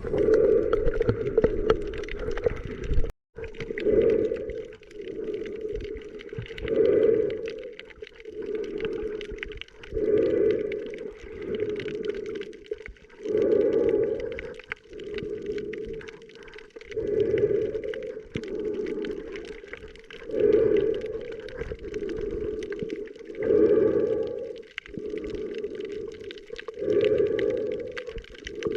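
Underwater sound while snorkeling: slow, regular breathing through a snorkel, one swell about every three seconds, with the sound cutting out briefly about three seconds in.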